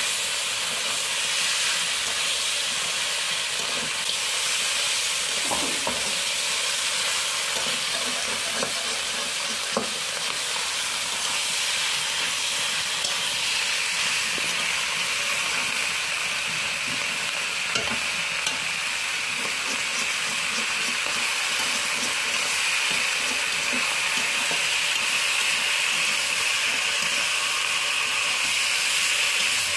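Duck pieces sizzling in a metal karahi while a metal spatula stirs them, with a steady hiss and the occasional sharp scrape or click of the spatula against the pan.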